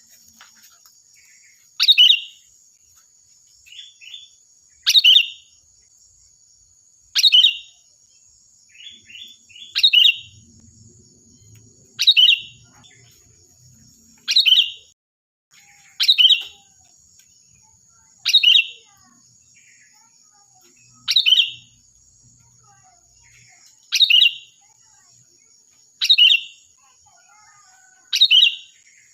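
Sooty-headed bulbul (kutilang) calling: a short, loud, sharp call about every two to three seconds, a few led in by softer quick notes. A thin steady high tone runs underneath.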